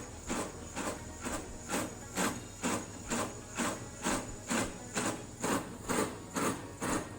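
Line-boring bar cutting hardened steel in an excavator gearbox bore, giving an even, scraping knock about twice a second over a steady high whine.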